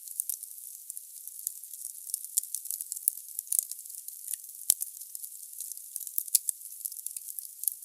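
Wood fire crackling in a fireplace: a steady hiss with many irregular small pops, and one louder snap a little past the middle.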